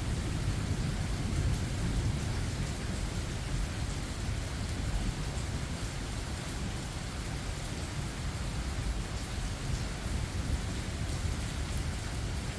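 Steady rain falling during a thunderstorm, with a low thunder rumble underneath that is loudest at the start and eases off over the first couple of seconds.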